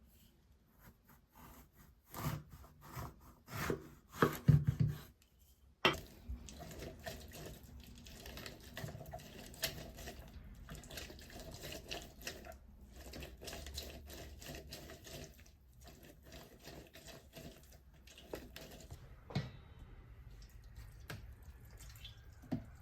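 Water running into a kitchen sink, with a run of knocks and clatters in the first few seconds and small clicks throughout.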